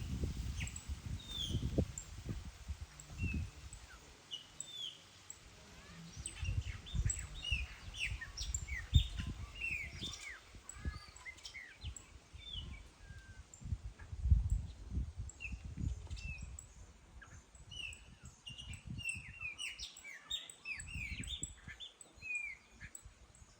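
Several songbirds chirping and singing at once, a steady stream of short, high, mostly falling notes that overlap. Irregular low rumbling bursts come and go underneath.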